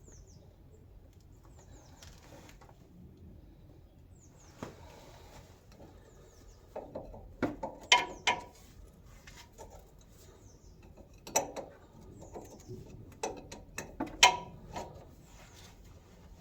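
Scattered sharp metallic clinks and knocks of hand tools on the fuel fittings of a 1913 Richard Hornsby portable engine, in clusters near the middle and again later.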